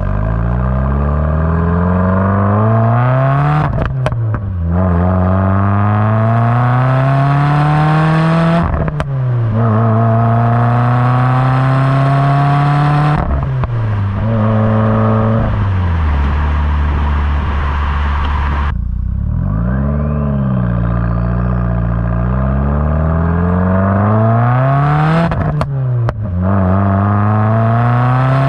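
Subaru WRX's turbocharged flat-four running through a Borla S-Type exhaust, rising in pitch under hard acceleration again and again. Each gear change brings sharp pops and cracks from the exhaust.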